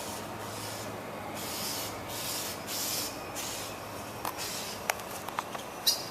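Blackbird giving harsh, screeching alarm calls in a quick run of short bursts, then a few sharp chips near the end: its alarm at a cat that has killed a baby bird.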